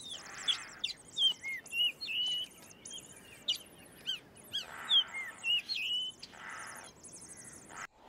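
Birds chirping: many short, high chirps with quick rising and falling notes, over a faster, higher trilling. The sound cuts off near the end.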